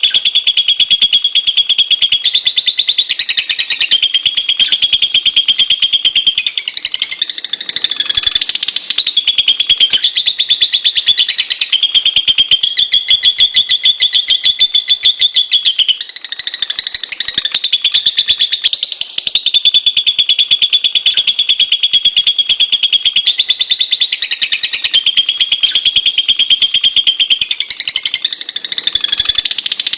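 Lovebird's high-pitched, rapid chattering trill, running on almost without a break and shifting in pitch and phrasing every few seconds.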